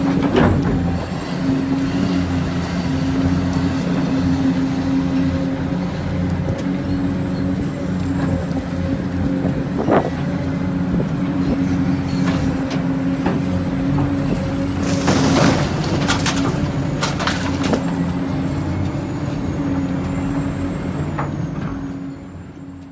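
Radio-controlled model construction vehicles running: a steady engine-like hum with a faint high whine above it, a sharp click about ten seconds in, and a few short hissing bursts about fifteen to seventeen seconds in.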